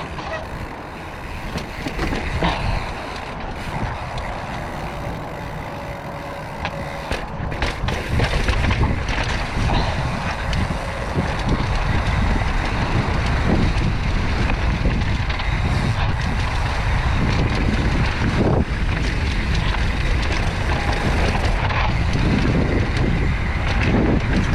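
Wind buffeting the microphone and mountain bike tyres rolling over a rough dirt trail during a descent, a steady rumbling noise that grows louder about a third of the way in.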